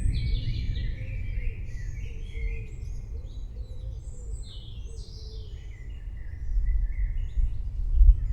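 Birds chirping and singing over a deep rumble of thunder that swells near the end.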